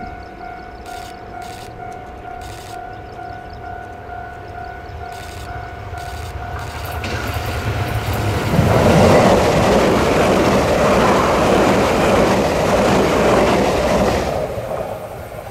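Level-crossing warning bell ringing steadily, then a Tze-Chiang express train passing close by at speed. From about eight seconds in there is a loud rush of wheel and body noise, which fades away near the end.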